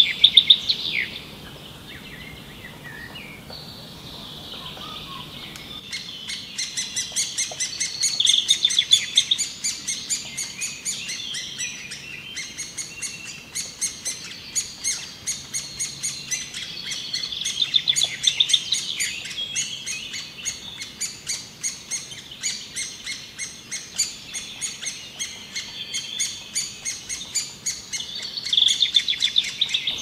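Birds chirping: a few loud calls at the start, then rapid, dense chirping that runs on from about six seconds in, with another loud burst of calls near the end.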